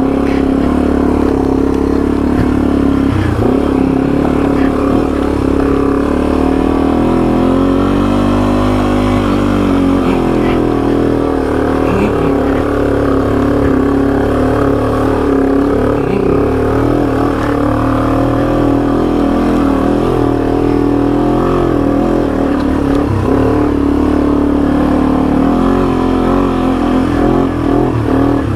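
Yamaha TW200's single-cylinder four-stroke engine running hard under load up a steep hill, its pitch rising and falling with the throttle.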